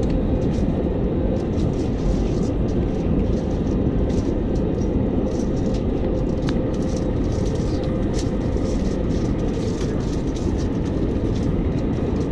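Airbus A321 cabin noise during take-off: a loud, steady rumble of the jet engines and rushing air, with a faint steady hum and light rattles.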